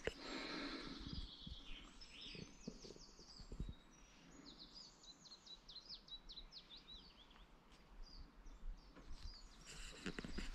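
Small birds chirping: a quick run of short, high, falling notes over faint outdoor background, with a soft knock a few seconds in.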